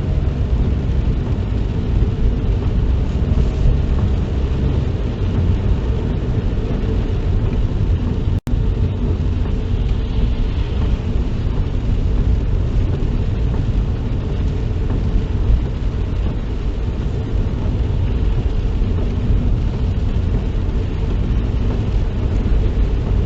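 Steady low rumble of a car being driven, heard from inside the cabin: engine and road noise with no distinct events. The sound cuts out for an instant about eight seconds in.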